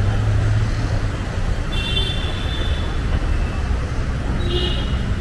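Busy city ambience: a steady low rumble of traffic, with a short high-pitched tone about two seconds in and another near the end.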